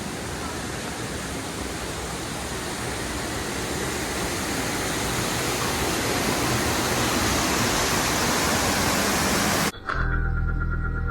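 Steady rushing noise, like wind or falling water, with music underneath, growing slowly louder on a flight-simulator ride; it cuts off abruptly near the end, giving way to a low steady hum.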